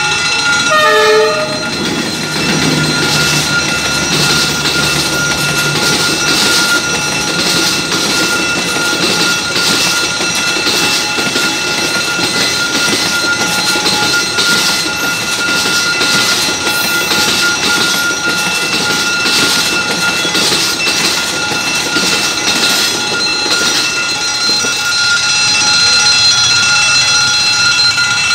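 Passenger train passing close by at a level crossing, its wheels clattering rhythmically over the rails for about twenty seconds. A low horn sounds about three seconds in. A steady high warning tone from the crossing signal sounds throughout.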